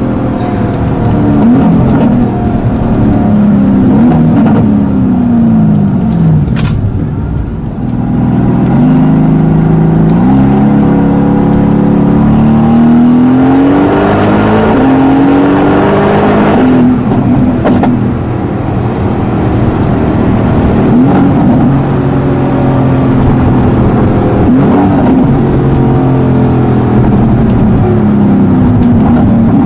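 Tuned Mercedes-AMG GT S twin-turbo 4.0-litre V8 accelerating and revving, its pitch climbing and then dropping back again and again as it shifts through the gears. A single sharp crack about seven seconds in.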